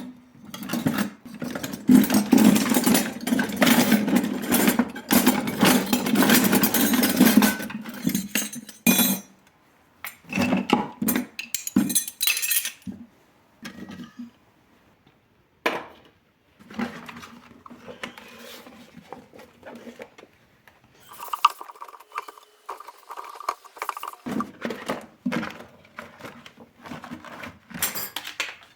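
Dishes, pots and cutlery clattering and clinking as a kitchen is cleaned: dense, continuous clatter for the first eight seconds or so, then scattered knocks and clinks. A short steady tone sounds a little past the middle.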